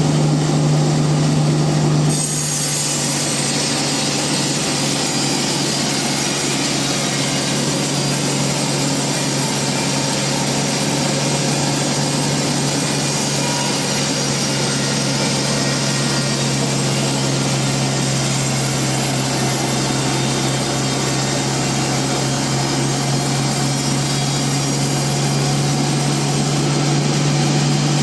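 Band sawmill cutting a trembesi (rain tree) log: a steady machine hum, with the blade biting into the wood about two seconds in and a steady hissing cut running on until it eases near the end.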